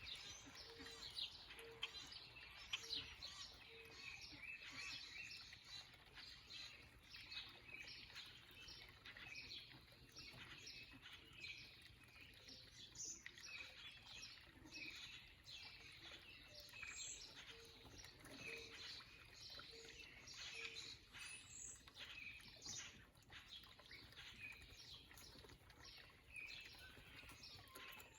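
Small birds chirping and calling, with many short high chirps overlapping. A separate low note is repeated in short runs of four or five several times.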